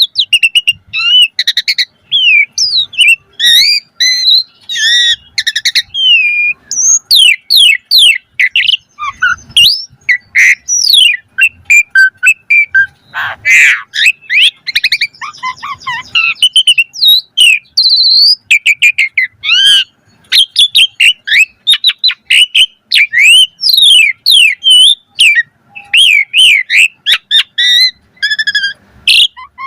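Asian pied starling singing a long, varied song of quick whistles, chirps and pitch glides, with a harsh rasping note about halfway through.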